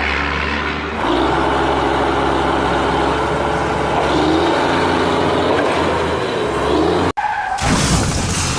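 Heavy vehicle engine running steadily, cut off abruptly about seven seconds in, followed by a brief noisy rush.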